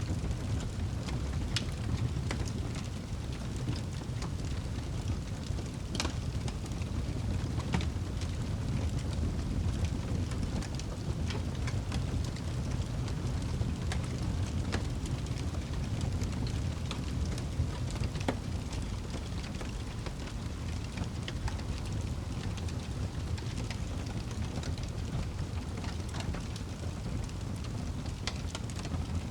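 Wood fire burning in a fireplace: a steady low rumble of the flames with scattered crackles and pops, one sharper pop about six seconds in.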